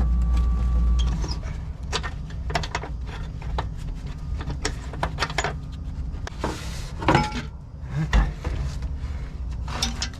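Clicks, knocks and scraping of a forklift's air cleaner housing being handled and its outer filter element pulled out, with a couple of heavier thumps later on. A steady low hum stops about a second in.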